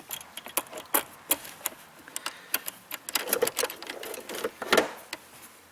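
A string of irregular light clicks and ticks, several a second, with a brief louder cluster about three to five seconds in.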